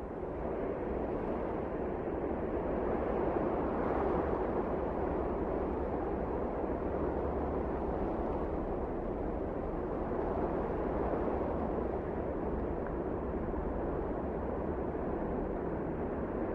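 Wind blowing, a steady low rushing noise that swells over the first few seconds and then holds.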